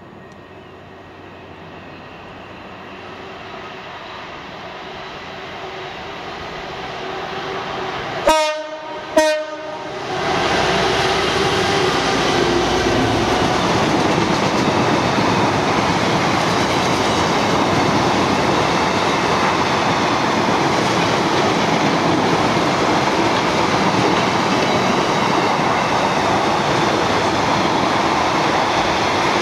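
Class 59 diesel freight locomotive, an EMD two-stroke, approaching and growing louder, then sounding two short horn blasts about eight seconds in. It passes, and the long train of hopper wagons runs by with a loud, steady rail noise.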